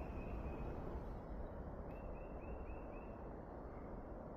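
Faint outdoor ambience: a steady low hiss, with a rapid high chirping trill of about five chirps a second that comes in about two seconds in and lasts roughly a second.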